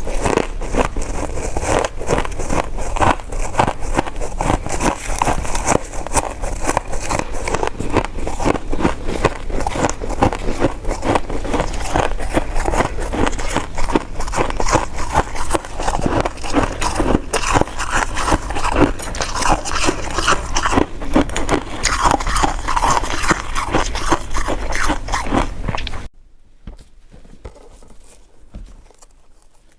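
Close-miked chewing and biting of coconut sticky rice cake: a dense, continuous run of wet, sticky mouth clicks and smacks. It stops suddenly near the end, leaving only faint room noise.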